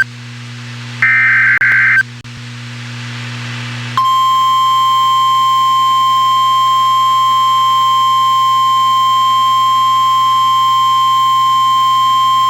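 NOAA Weather Radio alert: one raspy, warbling data burst of the digital alert header about a second in, then after a short gap the single steady, high-pitched warning alarm tone, held loud for about nine seconds. Together they signal that a warning, here a tornado warning, is about to be read.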